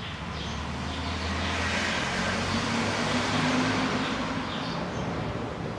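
A motor vehicle passing by, its engine and road noise swelling to a peak a couple of seconds in and then fading.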